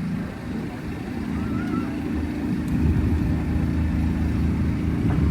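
A car engine running with a steady low rumble, getting louder about halfway through.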